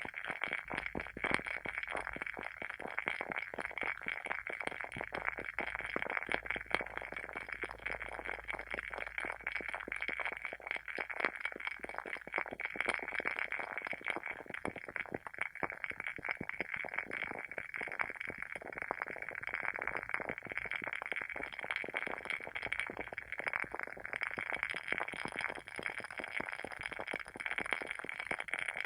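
Wooden candle wick burning with a steady, dense crackling of quick irregular pops, like a small fire.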